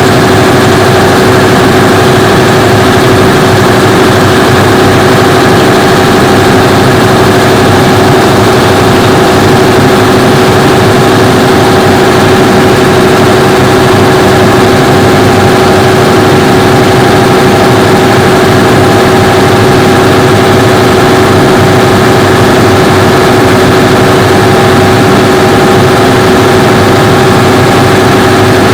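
Cummins diesel generator running loud and steady at constant speed after a manual start from its control panel, with a steady whining tone over the engine noise.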